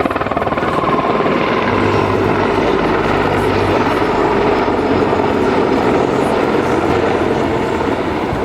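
Mi-26T2 heavy transport helicopter running, loud and steady, its eight-blade main rotor beating in a rapid pulse over the rush of its turbine engines.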